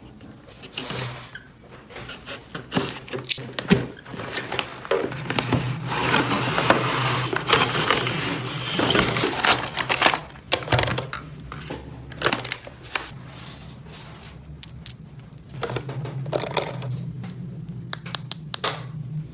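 Hands handling small plastic toy pieces: a string of clicks and taps, with a stretch of crinkling rustle in the middle, over a steady low hum.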